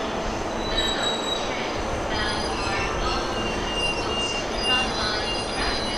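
Green-and-orange-striped commuter electric train running along the platform, a steady rumble with high thin wheel squeals that come and go.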